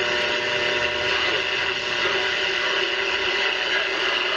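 Hallicrafters S-120 vacuum-tube shortwave receiver hissing with steady static, with faint steady tones under the noise. The static is put down by the owner to the camera and fluorescent lights rather than the radio itself.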